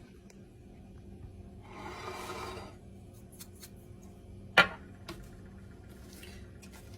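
A short rasping shake or grind from a spice container, lasting about a second, then a sharp click a couple of seconds later and a few light ticks.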